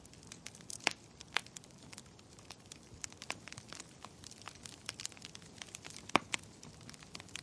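Wood fire crackling in a fireplace: irregular sharp pops and snaps, one louder pop about six seconds in, over a soft steady hiss.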